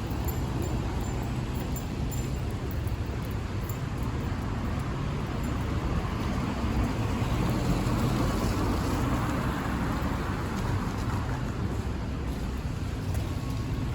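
City street traffic: a motor vehicle's engine running nearby with a steady low hum, swelling louder about halfway through as traffic moves past.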